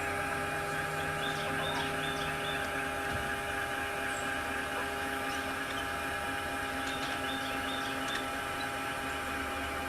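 A steady electrical-sounding hum with several held tones, unchanging throughout.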